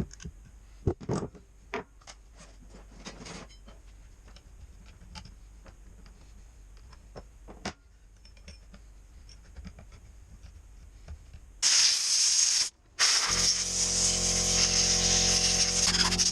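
Light clicks and knocks of parts and tools being handled on the chainsaw, then, about twelve seconds in, a loud hiss. It stops briefly, then starts again and runs steadily with a low hum under it.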